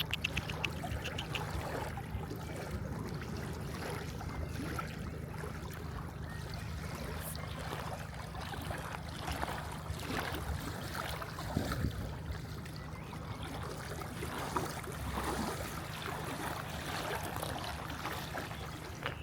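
Lakeside outdoor ambience: a steady low rumble under a soft wash of water-like noise, with scattered faint taps. A short rapid run of high ticks sounds about a second in.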